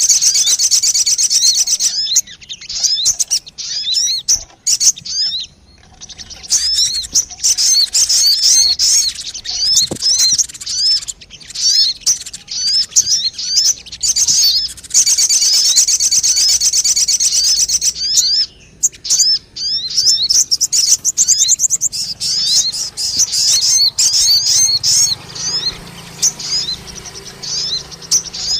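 Lure recording of sogon bird calls: fast, high-pitched twittering chirps in long runs with short pauses between them.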